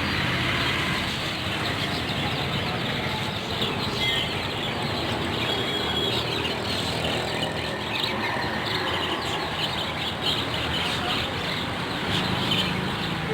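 Many small caged birds chirping over a steady background rush, the chirps busier near the end.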